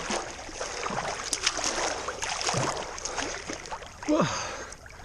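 Water splashing and sloshing around a person wading and swimming in cold water, with a couple of short falling exhales at the cold.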